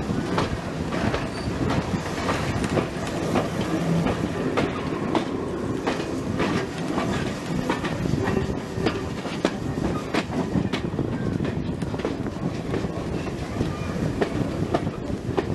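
Train running along the track: a steady rumble of the carriages with repeated clicks of the wheels over the rail joints.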